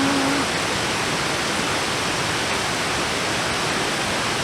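A mountain stream rushing steadily, an even hiss of running water with no breaks.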